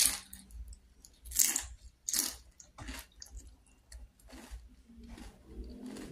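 Close-up chewing of crisp fried batagor (fish-tofu dumplings) in sauce: a series of wet crunches, about one every half second to a second, loudest at the start.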